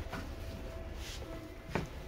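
Seibu 2000 series electric train running, heard inside the car: a steady low rumble with a faint hum, and a sharp clack about three-quarters of the way through.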